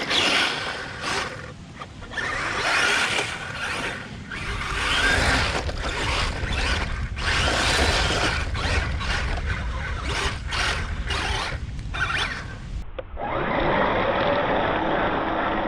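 Brushless Kyosho Blizzard RC tracked snowcat driving over grass in repeated bursts of throttle, its motors and plastic tracks running, stopping and starting many times. The sound changes abruptly about 13 seconds in.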